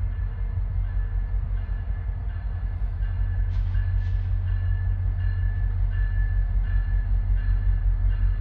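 VIA Rail passenger train arriving, with a steady low rumble of the locomotive and cars. A faint ring repeats about every two-thirds of a second, and two short clanks come about three and a half and four seconds in.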